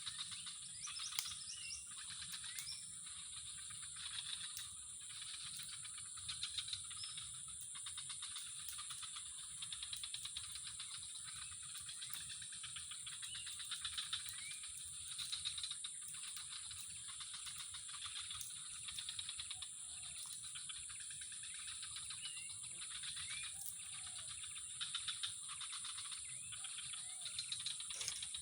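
Outdoor natural ambience: a steady high-pitched drone of calling creatures, with scattered short chirps of birds or other animals throughout.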